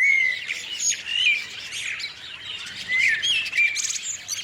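Several birds chirping and whistling over one another, short calls sliding up and down in pitch, with a fast trill near the end.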